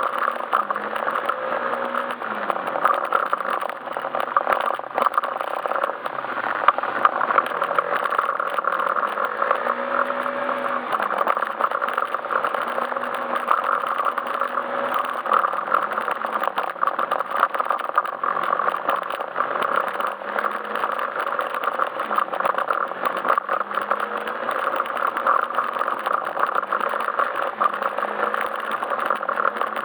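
Yamaha Majesty S scooter's single-cylinder engine running under way, its pitch rising and falling every few seconds with the throttle, over a steady rush of riding noise.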